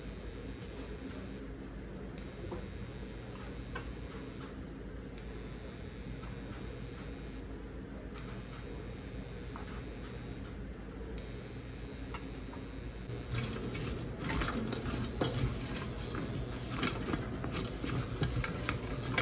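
Food frying in a pan, a steady high sizzle that cuts out briefly several times. In the last few seconds come clicks and clatter of kitchen utensils.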